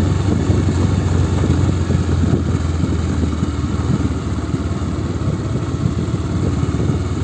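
Bajaj Pulsar motorcycle's single-cylinder engine running at low, steady revs while the bike creeps down a steep hill track.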